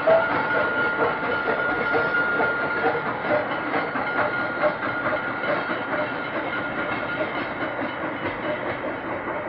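Vintage recording of a Pennsylvania Railroad L1 steam-hauled freight train on the Long Island Rail Road: its cars clatter over the rail joints as it passes, with a thin steady tone over the first few seconds, and the sound gradually fades.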